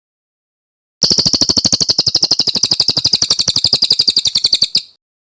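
Brown cililin, a small songbird, singing one long rolling trill of about thirteen sharp high notes a second. The trill starts about a second in and cuts off abruptly near the end.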